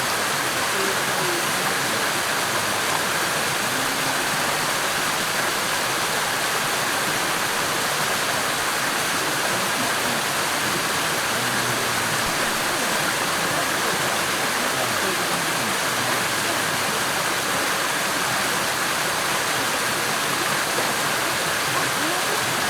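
Rushing water of a mountain stream, a steady even roar of flowing water over rocks.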